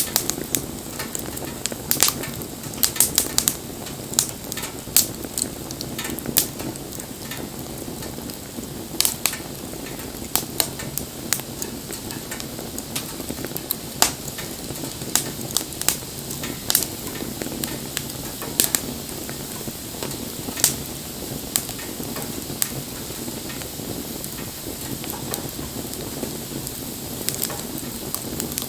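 Wood campfire burning with a steady low rush and irregular sharp crackles and pops, bunched at times and thinning out over the last several seconds.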